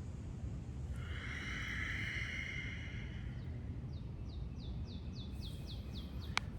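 A songbird sings a quick series of about ten short, high, falling notes, roughly four a second, over a low steady rumble of wind on the microphone. Before the song there is a long breathy exhale, and a single click comes near the end.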